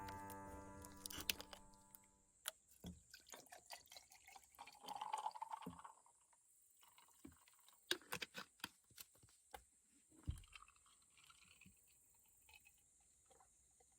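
Faint scattered clicks and small knocks of something being handled, with a short stretch of liquid being poured about five seconds in. Background music fades out in the first second or two.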